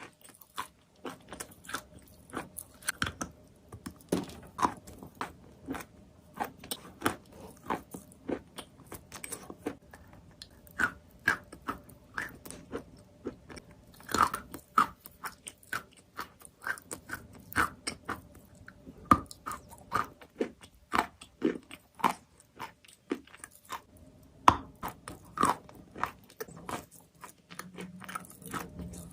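A person biting and chewing chalk: a long, irregular run of sharp, dry crunches, several a second.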